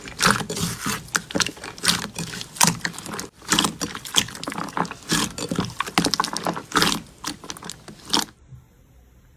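Slime being squeezed and worked by hand, with dense sticky crackling and popping. It cuts off abruptly about eight seconds in.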